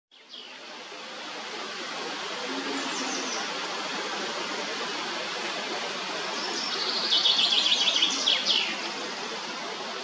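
A songbird sings a loud, rapid trill about seven seconds in, with a fainter high call near three seconds, over a steady outdoor hiss.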